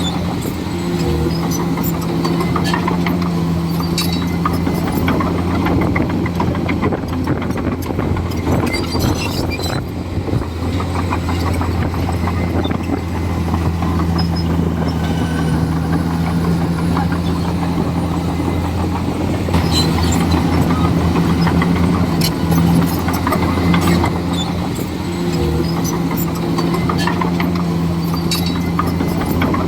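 Komatsu D41E crawler bulldozer's diesel engine running steadily under work, with scattered clanks and knocks throughout.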